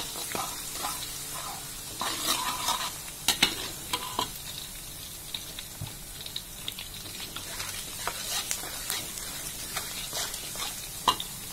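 Sliced shallots and garlic sizzling in hot vegetable oil in a wok, stirred with a metal spatula that scrapes and clicks against the pan every so often. This is the sauté stage, cooking the aromatics until they brown and turn fragrant.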